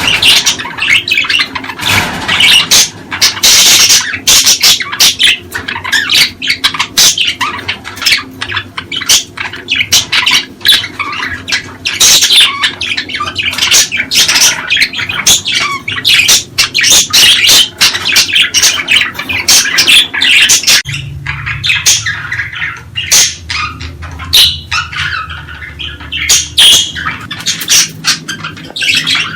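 Budgerigars chattering and squawking in a rapid, unbroken stream of chirps. A low steady hum comes in about two-thirds of the way through.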